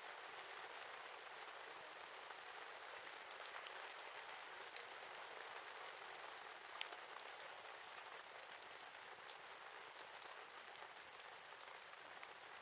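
Campfire crackling: a steady hiss with many small, sharp pops, one louder pop about nine seconds in.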